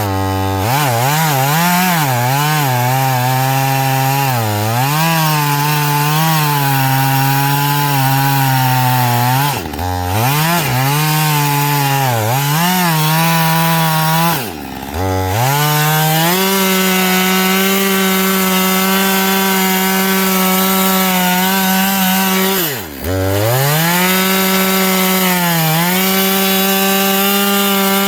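Husqvarna 562 XP two-stroke chainsaw cutting wood, its engine speed wavering under load and dropping off briefly three times before picking back up and holding steady at high revs. The chain is dull, and this is the sound of the saw struggling through the cut with it.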